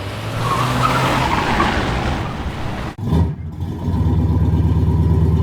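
Car sound: about three seconds of rushing noise, then, after an abrupt cut, an engine running loudly with a fast, even throb.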